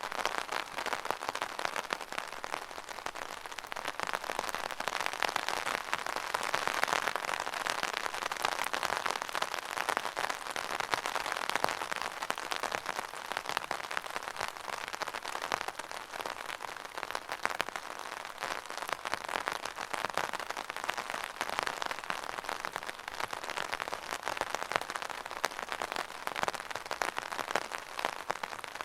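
Steady rain falling, a dense patter of many drops with no letting up.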